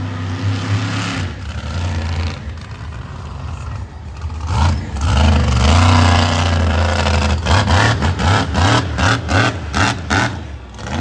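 Monster truck engine revving hard, rising and falling, then a quick run of sharp throttle blips in the second half.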